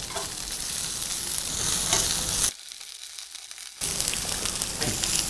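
Bottle gourd pieces sizzling in hot oil in a stainless steel pan while a spoon stirs them, with faint clicks of the spoon against the pan. The sizzle drops away for about a second past the middle, then comes back.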